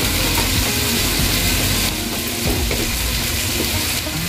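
Diced potatoes and carrots sizzling steadily in hot oil in a pot on the stove.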